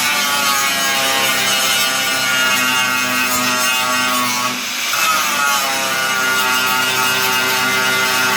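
Angle grinder grinding steel off a car floor pan, running continuously with its motor pitch sagging under load. It eases off briefly about four and a half seconds in, then picks back up and bites in again.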